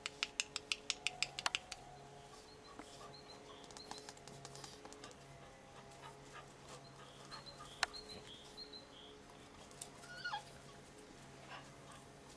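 Small birds chirping faintly in short high notes, over a steady low hum. Near the start there is a quick run of about ten sharp clicks, about six a second, and a single sharp click comes about eight seconds in.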